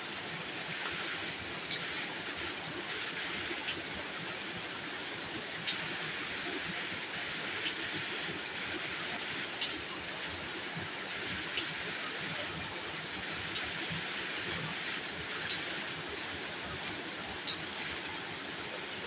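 Steady hiss of heavy rain falling, with a sharp tick about every two seconds.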